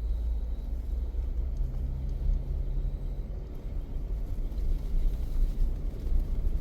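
Steady low rumble of a car driving, engine and road noise, with a faint low hum that comes in about a second and a half in and fades out a few seconds later.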